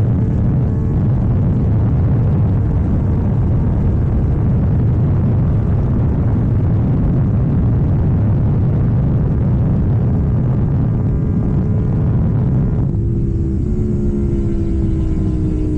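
KTM Duke 790 parallel-twin through an Arrow full exhaust, running at road speed under a heavy rush of wind noise. About 13 seconds in the wind drops away and the engine note comes through clearly, its pitch slowly falling as the bike slows.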